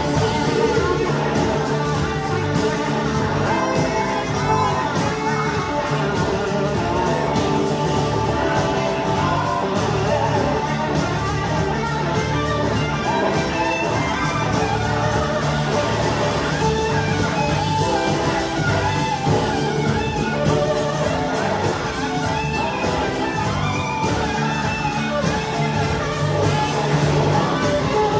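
Live rock band playing, with electric guitar, a steady beat and singing, heard as an audience recording in a large hall.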